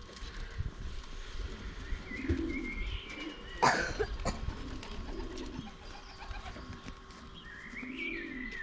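Domestic pigeons cooing, a low warbling coo repeated several times, with higher chirps in between. A single sharp knock is the loudest sound, a little past the middle.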